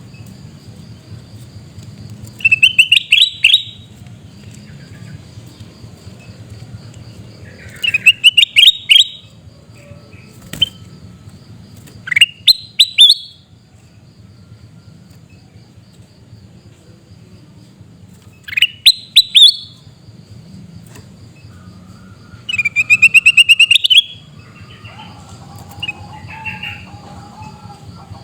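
Kutilang emas bulbul giving loud, harsh scolding calls in five short bursts of rapid rising notes, several seconds apart. A faint steady high insect whine and a softer, lower bird warble near the end lie behind them.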